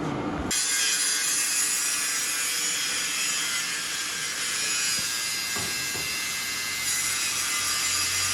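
Metal-working machine running with a steady high-pitched hiss. It starts abruptly about half a second in and runs on evenly.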